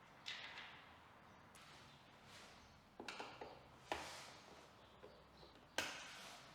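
A few short knocks and clicks of parts and tools being handled during motorcycle fairing removal, each followed by a brief rustle; the loudest comes near the end.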